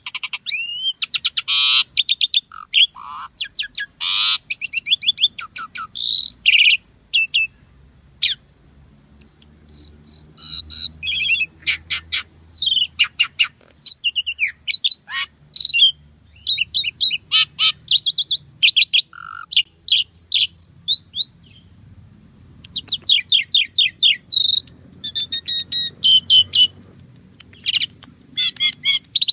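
Asian pied starling (jalak suren) singing in full voice: a long, varied run of whistles, rapid clicking trills and harsh rattling notes, with a short pause about three quarters of the way through.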